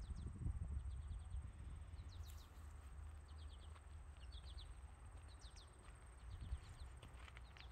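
Small birds chirping faintly, in repeated short bursts of several quick high notes, over a low steady rumble.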